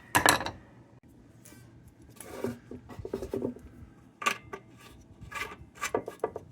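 Scattered light metal clinks and scrapes as the parts of a tin kerosene lantern are handled and fitted together, with a louder clank right at the start.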